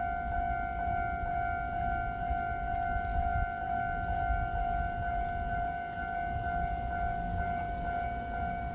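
A steady electronic warning tone holding one pitch without rising or falling, over a low rumble.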